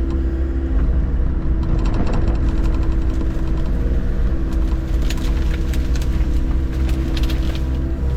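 Mini excavator's engine running steadily, with scattered sharp clicks and clanks about halfway through.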